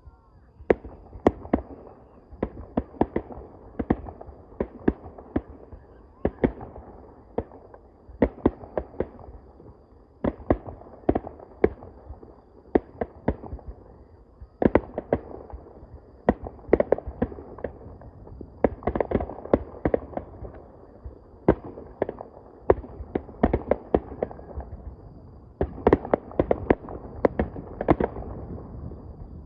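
Fireworks finale: aerial shells bursting in rapid succession, loud sharp bangs coming in clusters of several a second.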